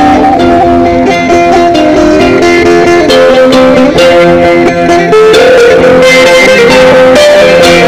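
Sape, the boat-shaped plucked lute of Borneo's Dayak people, playing a loud melody of ringing plucked notes. The melody moves up in pitch about five seconds in.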